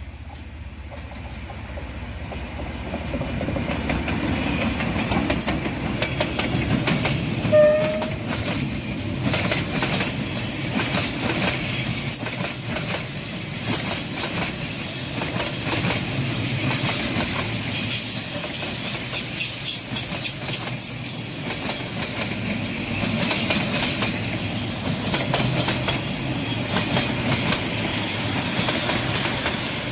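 Train rolling past at close range, getting louder over the first few seconds, then a steady rumble with rapid clicking of wheels over rail joints. A thin, high squeal from the wheels comes in through the middle stretch.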